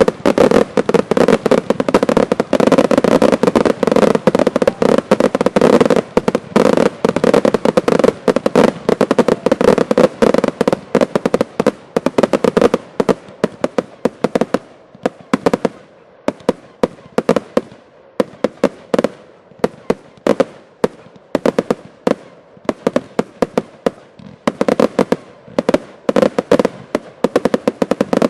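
Fireworks barrage: a dense, rapid string of bangs and crackles that thins after about twelve seconds into separate reports, then picks up again into a quick burst of shots near the end.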